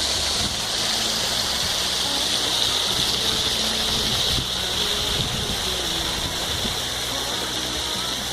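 Rushing water, a steady loud hiss with much of its weight high up, like a stream or small waterfall heard close to the microphone.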